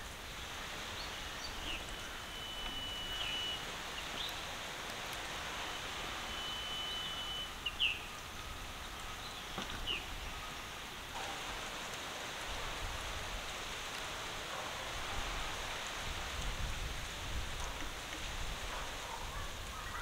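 Birds calling over a steady outdoor hiss. There are two long, level whistled notes in the first several seconds and a few short chirps up to about ten seconds in.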